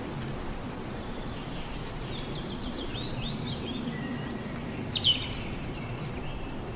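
Outdoor background hiss with a small bird chirping: two quick runs of falling notes about two and three seconds in, then a single sharp falling call about five seconds in.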